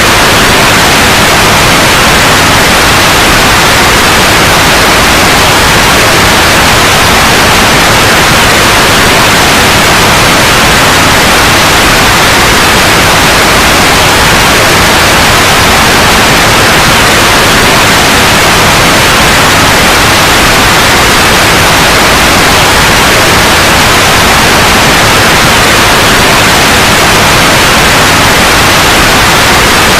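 Steady, loud white noise, an even hiss across all pitches, unchanging throughout.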